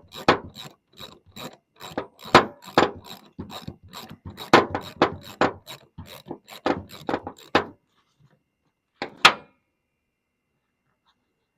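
Ratchet wrench clicking in a quick run of strokes while turning a 3/16 Allen-head fastener out of a hydraulic spool valve. The clicking stops about two-thirds of the way in, and two more sharp clicks come a second or so later.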